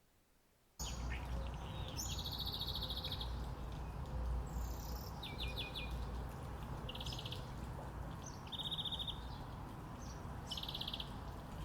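Several birds chirping and giving short, high trills over a steady low rumble of outdoor ambience, starting suddenly about a second in.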